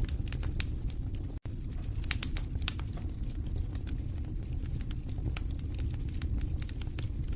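Fireplace fire burning with a steady low rumble and frequent irregular sharp crackles and pops. The sound cuts out for an instant about a second and a half in.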